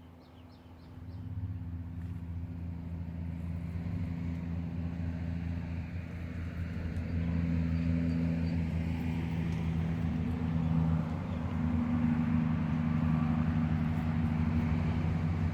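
A motor engine running steadily. It fades in about a second in and grows louder over the next several seconds, as if coming closer, then holds at that level.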